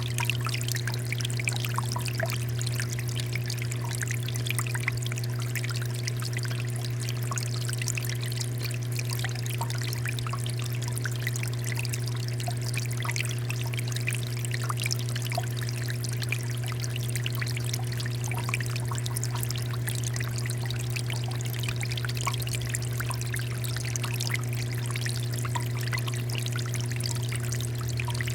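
Water fountain running, water pouring and splashing steadily, with a steady low hum underneath.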